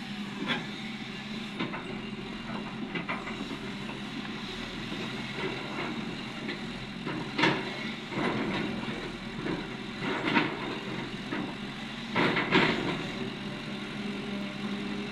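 Cat 330D excavator's diesel engine running steadily under load, with scattered sharp clanks and clatters of rock and steel as quarry waste is loaded; the loudest clatter comes about halfway and another cluster near the end.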